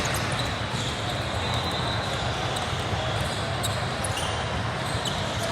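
Basketball bouncing on a gym court during a game, with short sharp clicks and a few brief high squeaks over a steady gymnasium din.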